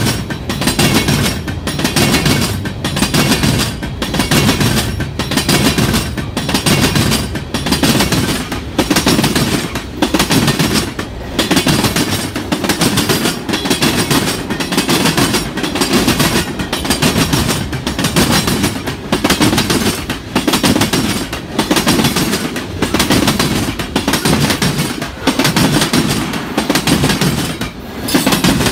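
Freight cars of a mixed freight train rolling past close by, their wheels clattering over the rail joints in a steady repeating clickety-clack with a rumble underneath.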